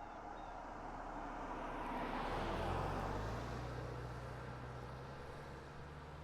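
A faint engine passing by: a noisy rumble that swells to a peak about two and a half seconds in and then fades, leaving a steady low hum.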